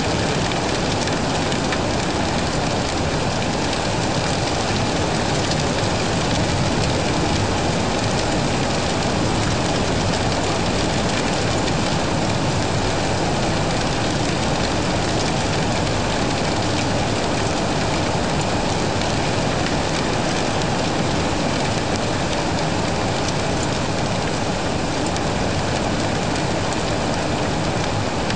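Steady heavy rain, a dense even hiss of falling drops with no let-up.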